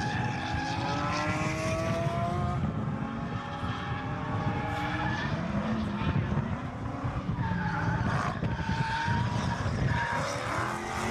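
Car engine revving hard, its pitch climbing and falling, with tyres squealing.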